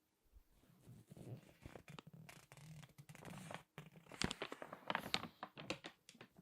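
Crinkly magazine pages being squeezed and handled, dense paper crackling that turns into sharper, separate crackles in the second half.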